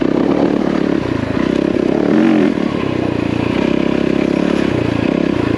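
Yamaha WR450F single-cylinder four-stroke dirt bike engine running as the bike rides a rutted track, the note swelling and dipping as the throttle opens and closes, with a short rev about two seconds in and some clatter from the bike.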